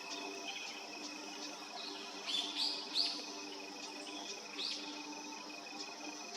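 Long-tailed rosefinch giving short whistled call notes: three close together about two seconds in and one more near five seconds, over a steady high-pitched ringing background.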